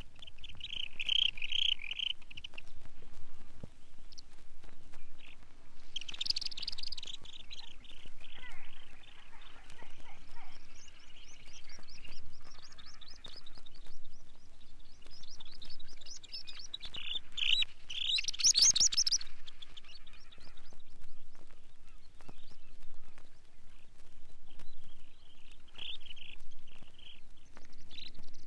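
Curlew sandpiper calling: bursts of rapid trilling, chattering notes, loudest about two-thirds of the way in. The recording is played from a vinyl record with light surface crackle.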